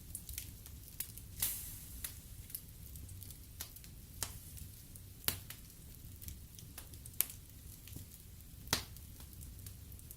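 Wood fire in a fireplace crackling: irregular small pops and snaps, with a handful of louder pops, over a low steady rumble.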